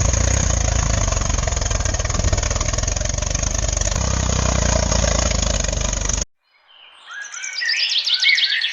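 A motor running with a fast, even pulsing that cuts off abruptly just after six seconds. A series of quick chirping glides follows near the end.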